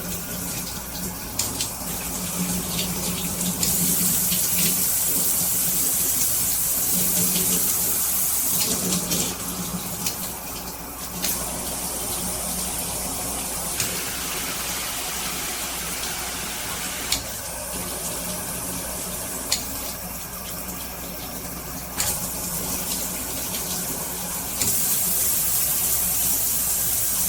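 Aisoso five-setting shower head running, its water spray hissing steadily. The spray gets stronger and weaker in steps every few seconds, with a few sharp clicks between them.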